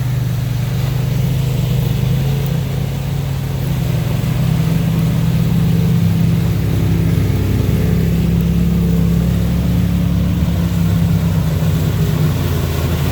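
Side-by-side UTV engine running steadily and close by at a fairly constant pitch, easing briefly about three seconds in.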